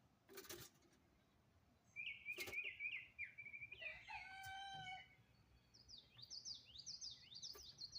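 Faint bird calls: a rooster crows once about four seconds in, with series of quick high chirps from small birds before and after it. Two soft clicks come early.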